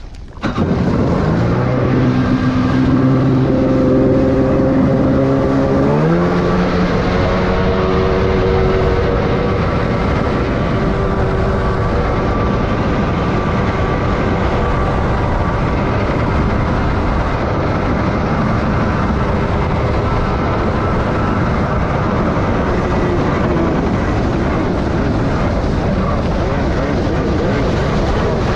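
Kawasaki ZXi 1100 jet ski's two-stroke triple opening up suddenly about half a second in, its pitch climbing in two steps over the first six seconds, then running steadily at speed under a heavy rush of wind and water noise.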